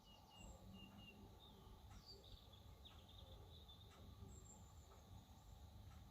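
Faint birdsong: small birds chirping and twittering in short repeated high notes over a low steady outdoor rumble.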